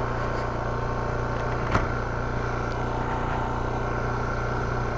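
Zontes T310 motorcycle's single-cylinder engine running at a steady, unchanging speed, with one short click about two seconds in.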